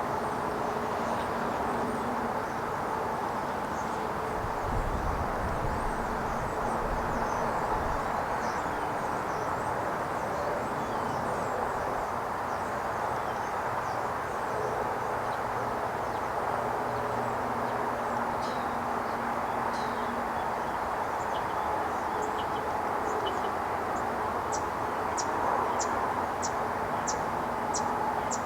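Outdoor field ambience: a steady hum with faint bird chirps over it. A low rumble comes in around a quarter of the way through, and near the end there is a quick run of about eight high chirps, roughly two a second.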